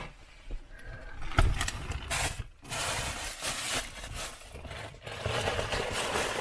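Bags and packs of food being handled and set down inside a car: rustling and scraping, with a thump about one and a half seconds in.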